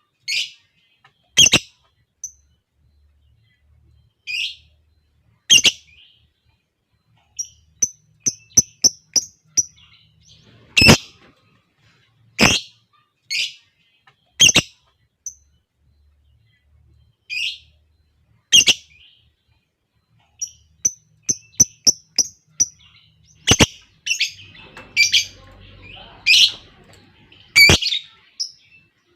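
Lovebirds calling: loud, shrill single screeches every one to several seconds, with two runs of quick high chirps at about five a second, the calls crowding together near the end.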